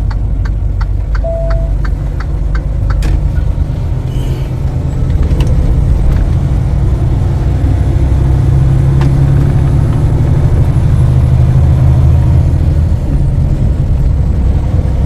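Freightliner Cascadia semi truck's diesel engine running on the move, growing louder about midway as it pulls harder. A run of even ticks, about three a second, sounds over it for the first few seconds.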